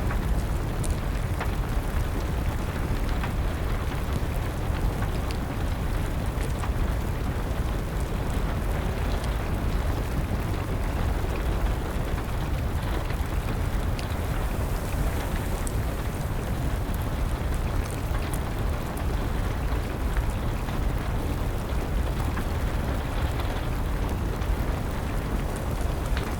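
Steady rain with a low rumble underneath, and a few faint, scattered crackles from a wood fire.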